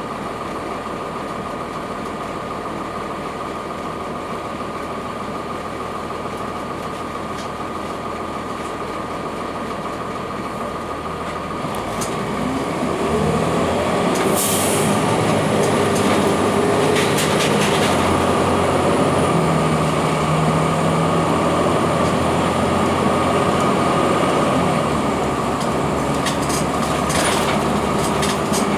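Blue Bird CS transit bus running on its Cummins ISC diesel with Allison automatic transmission. About twelve seconds in, the engine note rises and gets louder as the bus pulls away, with a few short rattles, then holds steady and eases off slightly near the end.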